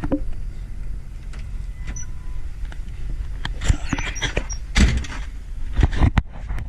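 Knocks, clicks and rustling, loudest in a few bursts in the second half, over a steady low rumble.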